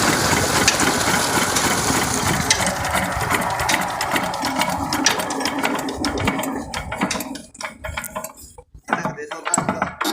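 Single-cylinder diesel engine of an 8 hp water pump running, then its firing beats slow and die away as it runs down to a stop about seven seconds in. A few scattered short knocks follow.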